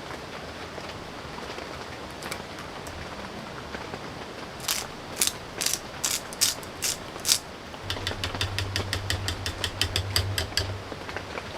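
Mechanical clicking over steady rain: a slow series of about seven sharp clicks, then a fast run of ratchet-like ticks over a low hum.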